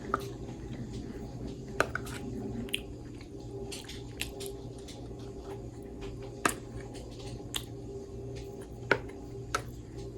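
Eating sounds: a fork or spoon clicking sharply against a plate or bowl about seven times at irregular intervals, with quiet mouth and chewing sounds, over a steady low hum.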